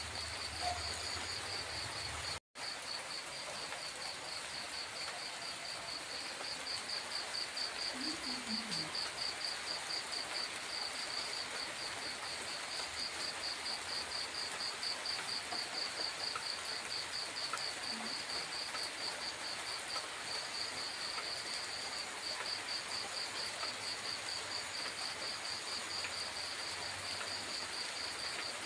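Steady light rain falling at night, with insects, likely crickets, chirping in a high, even pulse of about three or four chirps a second.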